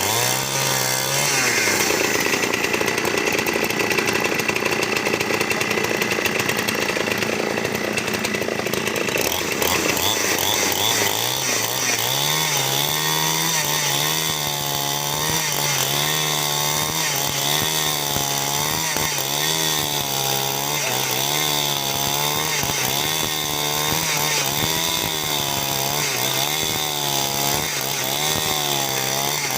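Chainsaw running and cutting wood. About ten seconds in the engine note drops and steadies, its pitch wavering about once a second as the load changes.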